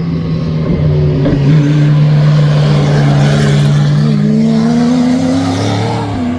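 A historic racing car's engine running loud, its note steady at first and then climbing gradually in the second half as it accelerates.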